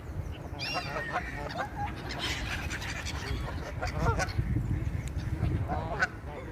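A flock of waterfowl calling, with short honking calls that come in clusters, several at a time.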